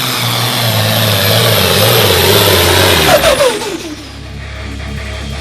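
Super Stock two-wheel-drive pulling truck's engine at full throttle under load, then shutting off about three seconds in, its pitch falling as it winds down.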